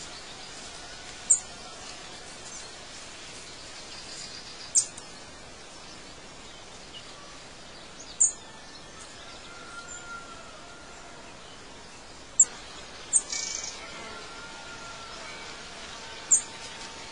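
Outdoor nature ambience: a steady background hiss with six short, sharp, high bird chirps spaced a few seconds apart, and a few faint whistles between them.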